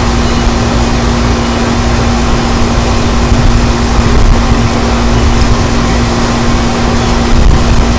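Strong wind gusting and buffeting the microphone, a loud, steady low rumble, with a constant hum running underneath.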